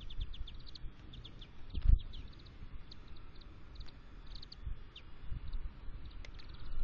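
Small birds chirping in quick runs of short, high notes at a feeder, with several dull low thumps, the loudest about two seconds in.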